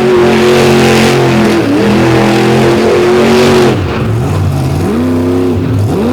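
Monster truck engine held at high revs, dropping off about four seconds in and then blipped up and down in short revs.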